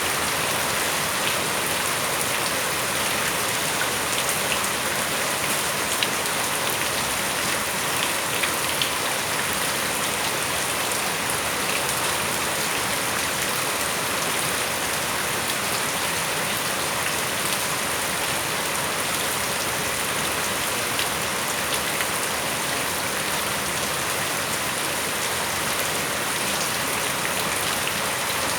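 Steady rain falling, an even hiss of rain on surfaces with scattered individual drops ticking now and then.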